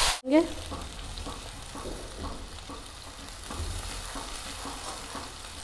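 Ground fried-onion paste frying in hot oil in a non-stick frying pan while a spatula stirs it: a low sizzle with soft, irregular scraping. A short rising squeak comes right at the start.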